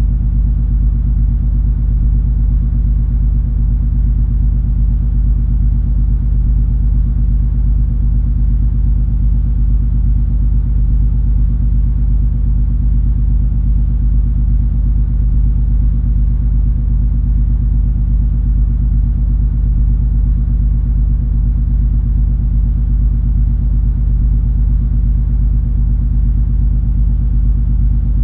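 Cruise ferry MS Color Fantasy's engines under way: a steady low rumble and hum with several even low tones in it, unchanging.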